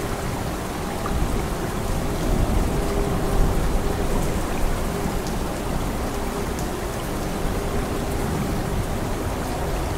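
Steady rain falling hard, with a low rumble of thunder underneath.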